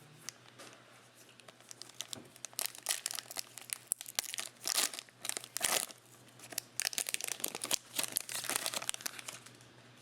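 Crinkling and tearing of a trading card pack's wrapper as it is ripped open and crumpled. A series of crackly bursts runs from about two seconds in until near the end.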